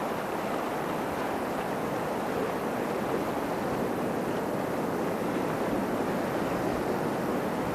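Floodwater rushing steadily, a constant noise with no break or change.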